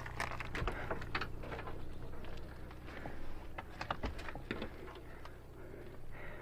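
Irregular crunching and crackling of footsteps on dry leaves, twigs and debris, with brush rustling.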